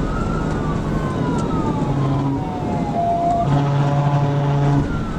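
Police car siren wailing, its pitch rising and falling slowly, one cycle about every four seconds. A steady low tone sounds under it for about a second past the middle.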